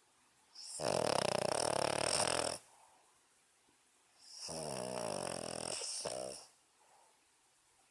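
Boston Terrier snoring in sleep: two long snores of about two seconds each, two seconds apart, the first a little louder.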